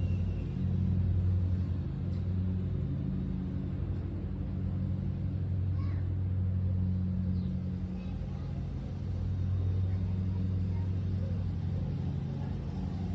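Small dirt bike running as it is ridden, a steady low motor drone that swells and eases a few times.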